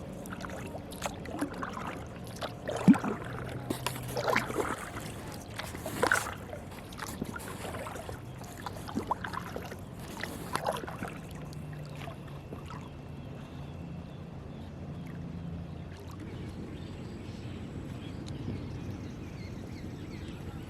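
Kayak paddle strokes splashing and water sloshing against the boat, irregular for roughly the first half, then calmer water with a faint steady low hum.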